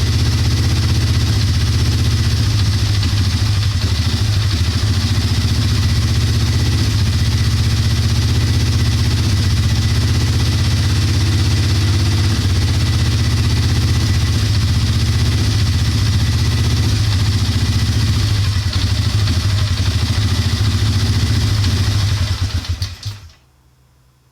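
Polaris Sportsman 400 ATV's single-cylinder four-stroke engine running at a rough idle, then shut off near the end, dying away within about a second.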